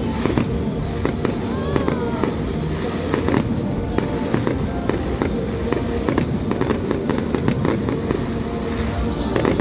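Fireworks display: a fast, continuous run of sharp bangs and crackles from aerial shells, over a steady low rumble.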